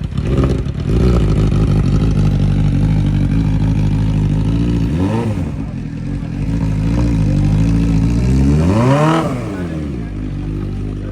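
Superbike engine idling, with a quick throttle blip about five seconds in and a bigger rev that rises and falls around nine seconds.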